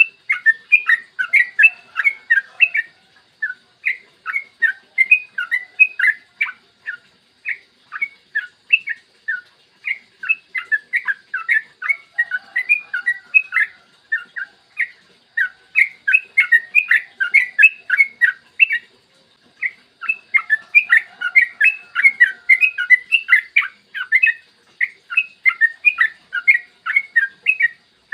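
Sooty-headed bulbul (trucukan) singing long, rapid runs of short chirping notes, phrase after phrase with only brief pauses between them.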